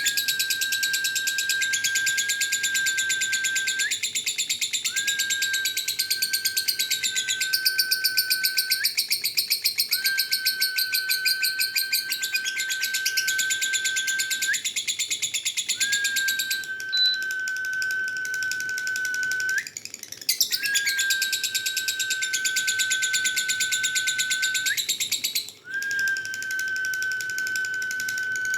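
Lovebird 'ngekek': a long, fast, high chattering trill that runs on almost without pause, broken only briefly twice in the second half. A steady high whistle-like tone is held underneath in stretches of about four seconds.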